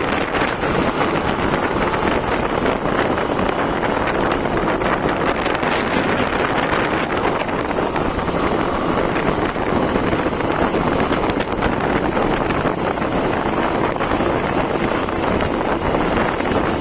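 Wind rushing over the microphone of a Hero Xtreme 160R motorcycle on the move, with steady engine and road noise beneath, unchanging throughout.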